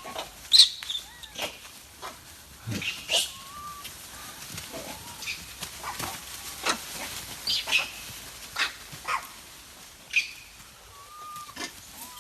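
Monkey giving short high squeaks and chirps, mixed with scattered sharp clicks and knocks.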